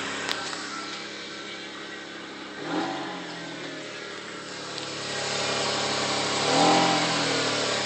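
2004 Toyota Tacoma engine running, blipped once briefly about three seconds in, then revved up and let fall back to idle near the end.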